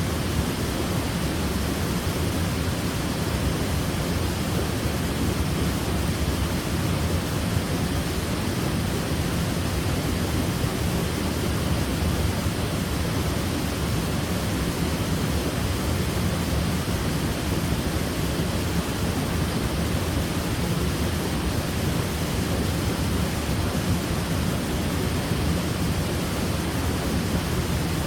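Waterfall: falling water rushing in a steady, unchanging roar, heaviest in the low range.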